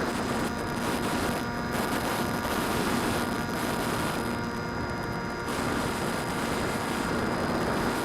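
DJI Phantom quadcopter's motors and propellers buzzing steadily in flight, heard from a camera mounted on the drone, with a rush of wind noise over it.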